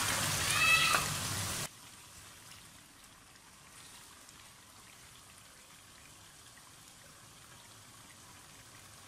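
Chicken pieces frying in oil in a pan, stirred with a spatula and sizzling loudly for the first second or two, then dropping suddenly to a faint, steady sizzle.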